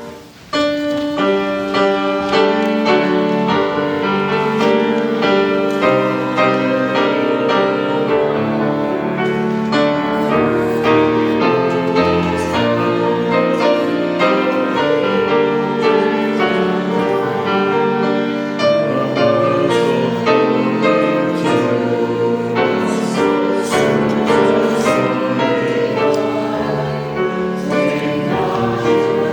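Congregation singing a hymn with piano accompaniment, the voices coming in about half a second in after a brief pause.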